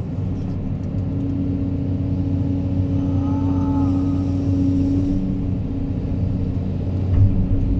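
Crawler excavator's diesel engine running steadily under work, with a steady hum over it that fades about five seconds in and a short bump near the end.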